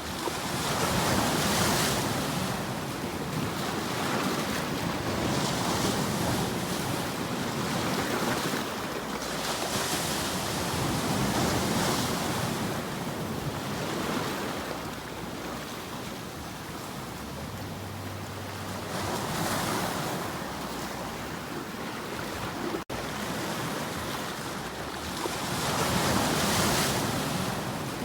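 Ocean waves washing ashore in slow swells every few seconds over a steady surf hiss, with a brief break in the sound a little after two-thirds of the way through.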